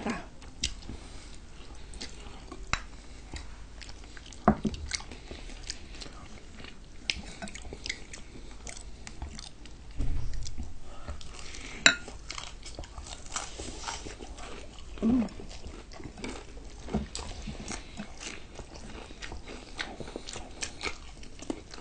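Close-up eating sounds: chewing and biting into crispy fried chicken and noodles, with many small wet mouth clicks. There is a sharp knock about 12 seconds in and a short hum a little after 15 seconds.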